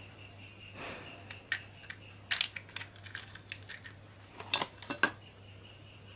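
Sharp metallic clicks and clinks of small ceiling fan parts and tools being handled during reassembly. There is a short rustle about a second in, then scattered clicks in two clusters, the second near the end.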